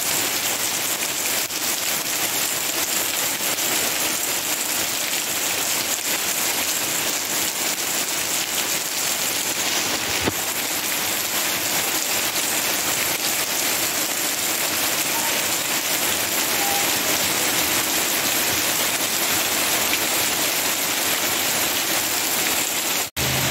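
Steady rain falling, an even, dense hiss. It cuts out for a moment near the end.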